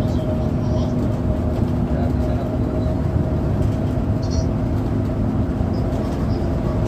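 Bus engine and road noise heard from inside the cabin of a moving coach: a steady low rumble with a constant engine drone.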